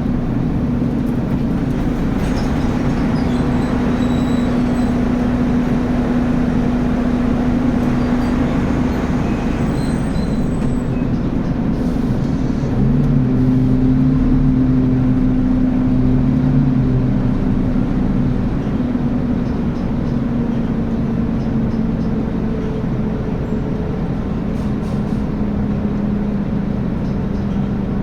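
Scania N280UB city bus engine running steadily. Its note steps up and grows louder about halfway through, then settles back lower a few seconds later.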